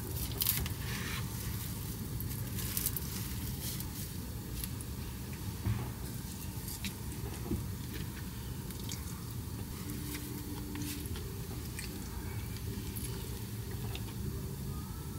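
A person chewing takoyaki, with scattered light clicks and taps, over a steady low hum.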